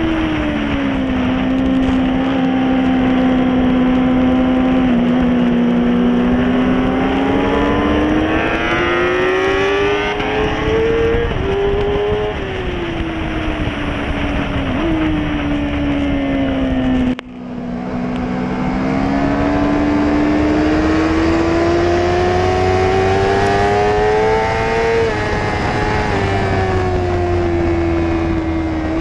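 Sport motorcycle engine heard from on board, revving up through the gears and dropping back off the throttle, twice, over steady wind and road rush. The engine sound cuts out briefly for an instant a little over halfway through.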